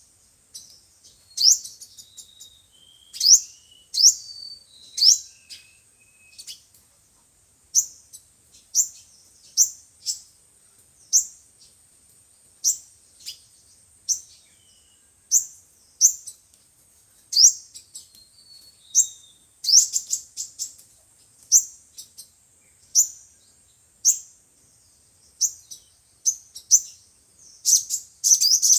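Sunbird calling: sharp, high chips sweeping downward, about one a second, with a fast run of notes near the end. A steady high-pitched whine runs underneath.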